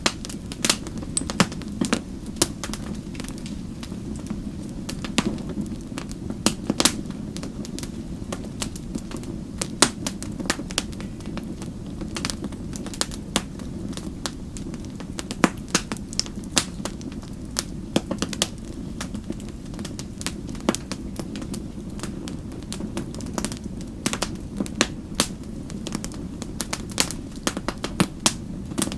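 Wood fire burning with a steady low rumble and frequent sharp, irregular pops and crackles of burning logs.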